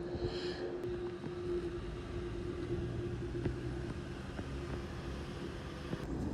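An engine rumbling, with a single steady hum held for about six seconds that stops near the end.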